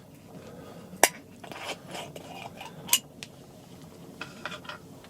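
Dishes and eating utensils being handled, with two sharp clinks, about a second in and near three seconds in, and lighter knocks between and after.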